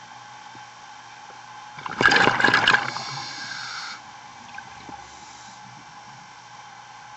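Underwater recording: a diver's exhaled bubbles from a scuba regulator, one loud bubbling burst about two seconds in that fades to a hiss by about four seconds in, over a steady underwater hum.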